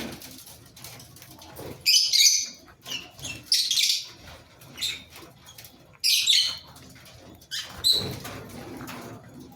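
Fischer's lovebird giving four short bursts of high, harsh screeching chatter, spaced a second or two apart.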